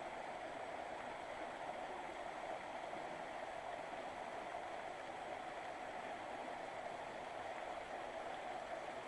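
Steady rushing and babbling of a mountain river flowing over rocks through a small canyon.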